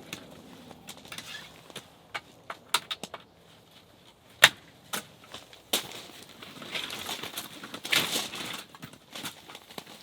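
Camping gear being handled during setup: scattered clicks and knocks, one sharp knock about four and a half seconds in, and a stretch of rustling a little later.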